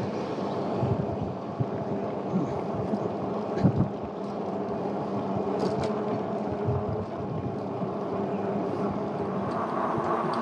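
Wind buffeting the microphone and road noise while riding an e-bike along a street, with irregular low rumbling gusts over a steady hiss.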